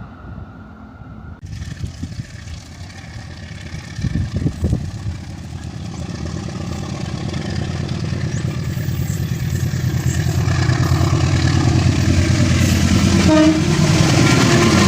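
Diesel locomotive approaching, its low engine and rail rumble growing steadily louder, with a steady horn tone starting near the end.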